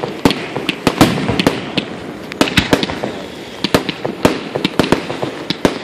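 Fireworks going off: a dense, irregular run of sharp cracks and pops, several a second, over a continuous crackle.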